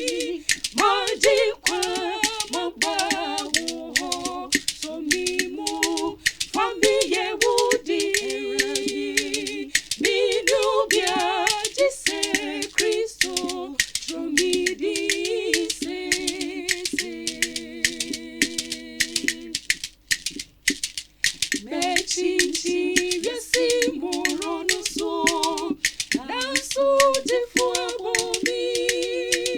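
Unaccompanied gospel vocal group singing in harmony, with sharp regular clicks keeping time. The singing breaks off briefly about twenty seconds in.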